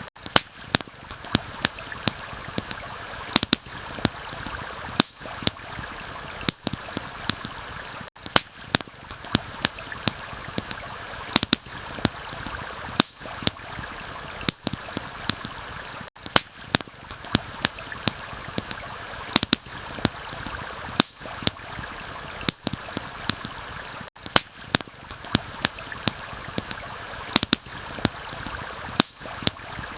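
A stream flowing steadily, with a campfire crackling and popping in sharp, irregular snaps over it.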